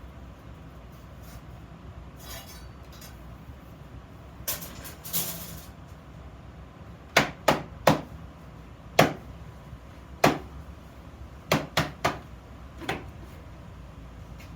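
Hard metal knocks and clinks on iron: a short scrape, then about nine sharp, irregularly spaced strikes in the second half.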